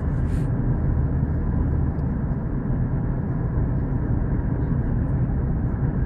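Steady low rumble of a moving passenger train, heard from inside the carriage, with a short hiss just after the start.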